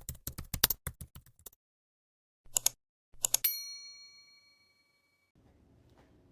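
A fast run of key clicks like typing that fades out over about a second and a half, then two short rattles and a single bell ding that rings out for about a second.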